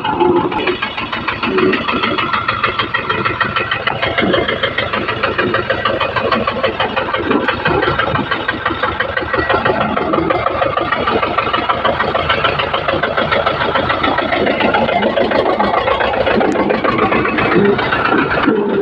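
Old tractor engine running steadily, with a fast, even knocking beat.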